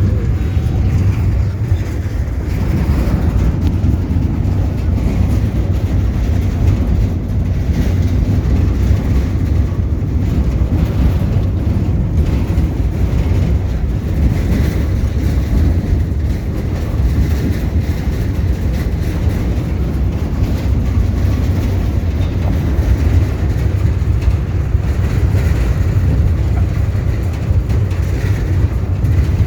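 Truck on the move: a steady, loud low rumble of engine and road noise, with rattling over a rough road.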